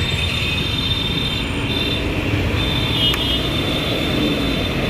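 Steady road traffic noise: vehicle engines and tyres in a continuous rumble, with some thin high tones coming and going.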